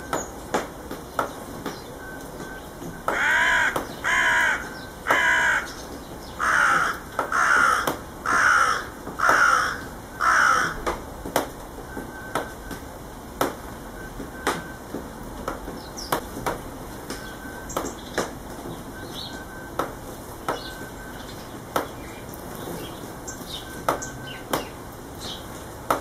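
A bird calling loudly and harshly eight times, each call about half a second long: a run of three, then a run of five. Short sharp ticks and faint brief chirps go on throughout.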